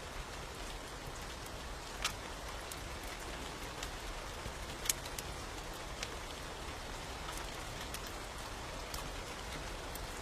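Steady rain hiss with a few sharp crackling pops of a wood fire, the loudest about two and five seconds in.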